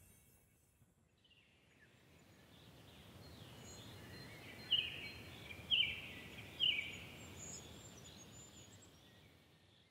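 A bird calls three times, each a short falling note about a second apart, over a soft outdoor background hiss that fades in and then out.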